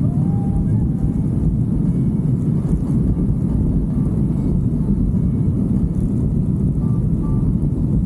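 Motorcycle under way: a steady low rumble of engine and road noise, mixed with wind on the microphone.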